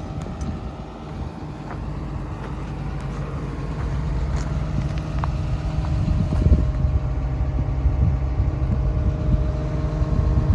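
Komatsu PC210LC-10 excavator's diesel engine running steadily. It grows louder over the first half, then holds.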